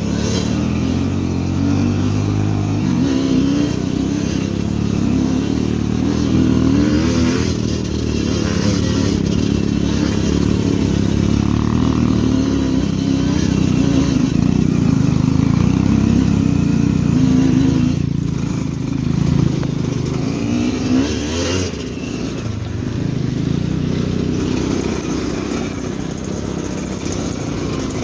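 Motorcycle engine running under load on a rough trail, its revs rising and falling again and again.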